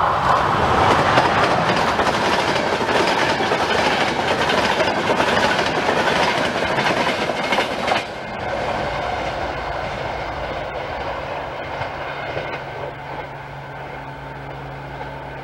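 Locomotive-hauled passenger train passing close by at speed: a loud rush of wheel and rail noise with clickety-clack over the rail joints. About eight seconds in it drops and then fades steadily as the train draws away.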